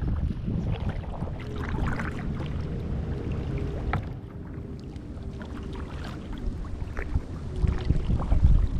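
Kayak paddle splashing in sea water, a few strokes a couple of seconds apart, over a steady low rumble of wind on the microphone.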